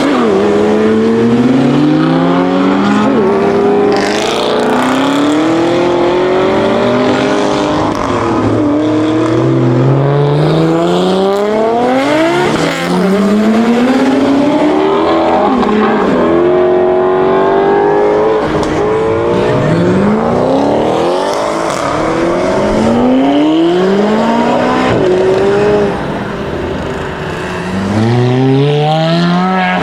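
Performance car engines accelerating hard one after another. Each climbs steeply in pitch, then drops back at a gear change or lift-off before the next climb, many times over.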